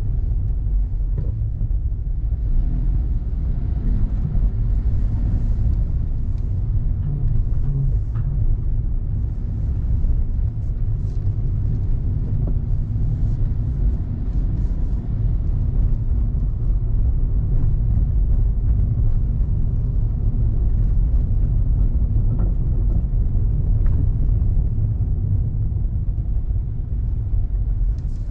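A car driving along a road: steady low rumble of engine and road noise throughout.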